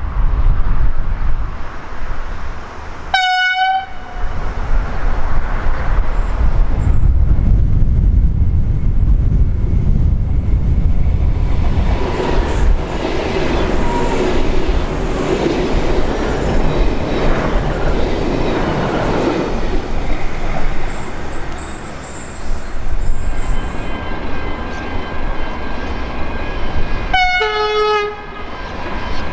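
A V/Line passenger train passes with a heavy rumble. Its horn sounds two short blasts, one a few seconds in and another near the end.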